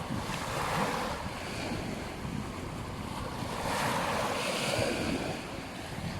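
Ocean surf washing onto a beach, swelling twice, with wind rumbling on the microphone.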